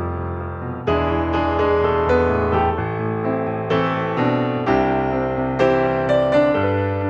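Background music: a gentle piano melody, notes struck about once or twice a second over sustained bass notes.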